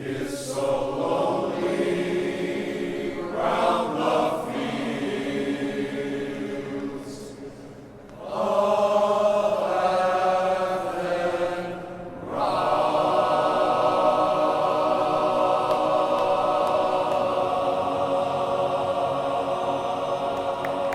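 Men's glee club singing live in close harmony, in phrases with short breaks, then holding one long chord from about twelve seconds in.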